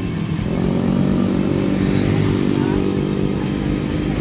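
Monkey-style motorcycle's 250 cc twin-cylinder engine running under way, a loud, even engine note holding a steady pitch.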